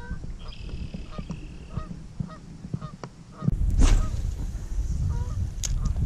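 Distant birds calling in a string of short repeated notes, about two a second. About halfway through, the sound changes to a low rumble with a couple of sharp clicks.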